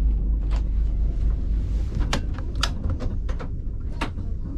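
A series of scattered clicks and knocks, about ten of them, over a steady low rumble.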